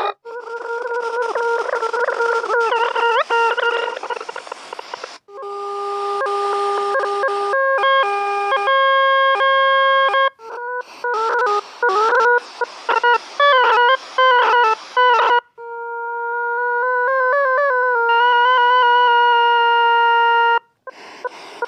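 Synthesized electronic tones from the Desmos graphing calculator's sound feature. A series of held, buzzy tones changes every few seconds, some with wavering pitch, with a quick run of short beeps about halfway through and choppy stop-start tones after it.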